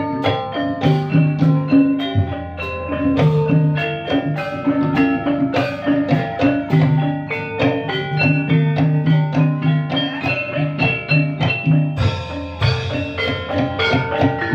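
Live ebeg accompaniment: mallet-struck keyed percussion ringing in fast, steady rhythmic patterns over drums.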